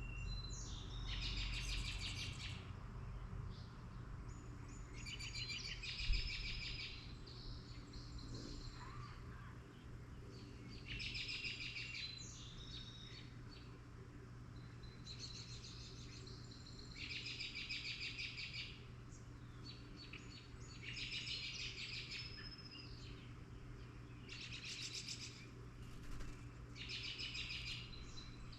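A songbird repeats a short trilled song phrase, about a second long, every two to four seconds, over a steady low hum. There is a single sharp knock about six seconds in.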